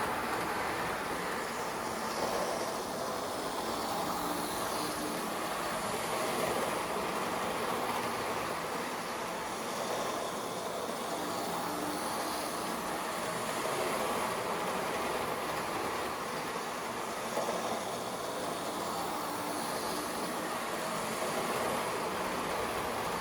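H0-scale Lima model train with an E646 electric locomotive running on track: a steady whir of the small electric motor and the rolling of the wheels on the rails, swelling and fading a little as it travels.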